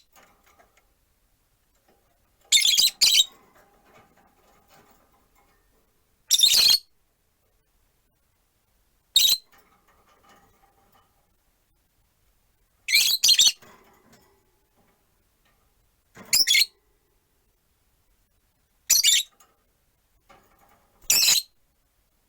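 Peach-faced lovebirds giving short, shrill calls about every three seconds, seven in all, some as quick double calls.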